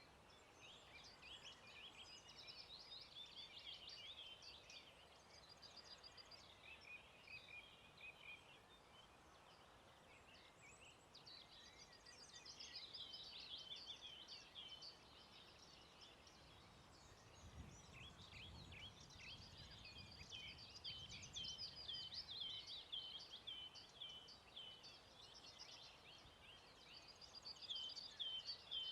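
Faint songbirds singing, several overlapping songs of quick chirps and trills, with a run of evenly repeated falling notes near the end. A brief low rumble comes about two-thirds of the way through.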